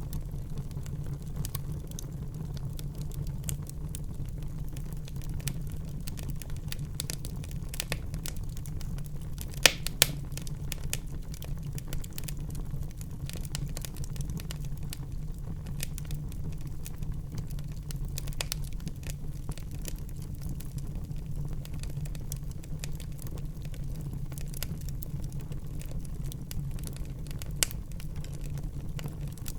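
Wood fire burning in a fireplace: a steady low rumble of the flames with frequent small crackles, and two louder pops close together about ten seconds in.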